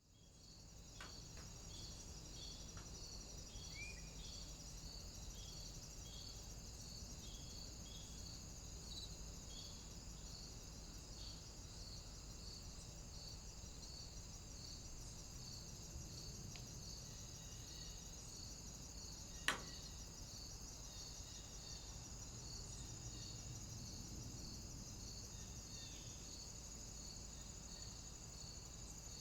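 Cicadas chirring steadily: a continuous high buzz with a regular pulsing call about twice a second, over a low rumble of wind. One sharp click sounds about two-thirds of the way through.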